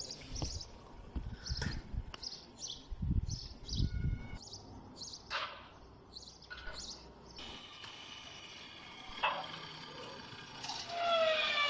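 Small birds chirping, short high chirps repeating a few times a second, with a few sharp knocks.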